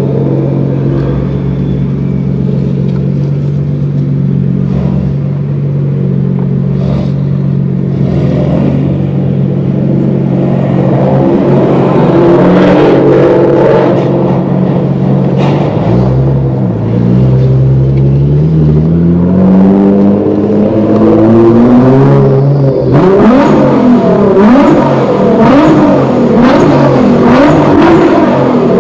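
Nissan GT-R R35's twin-turbo V6 idling steadily, then revved: the pitch rises and falls once about twelve seconds in, and from about two-thirds of the way through it is blipped up and down repeatedly.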